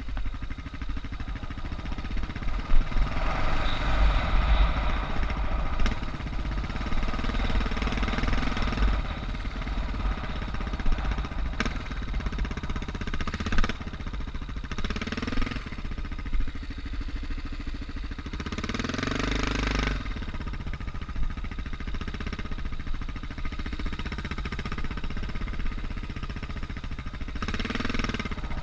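Suzuki DR650's single-cylinder four-stroke engine running under way, its revs rising and falling in several short blips of throttle, with a couple of sharp knocks.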